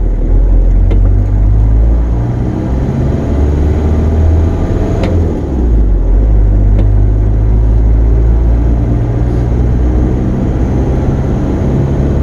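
Ford Ranger pickup's diesel engine running under way, heard from inside the cab as a steady low rumble. The engine note dips and shifts briefly about five to six seconds in.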